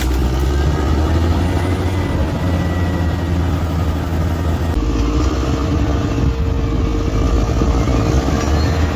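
Bulldozer's diesel engine running steadily with a deep hum, the sound shifting abruptly about five seconds in.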